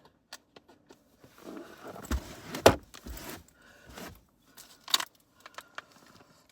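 Handling sounds at a truck door: scattered clicks and rattles like keys jangling, with a heavy thump a little under three seconds in and another sharp knock about five seconds in.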